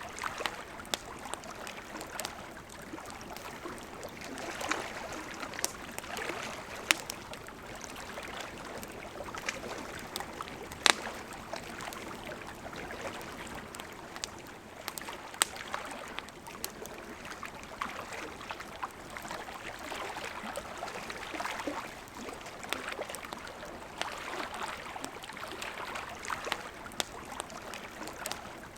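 Campfire crackling, with sharp irregular pops, the loudest about eleven seconds in, over the steady rush of a flowing river.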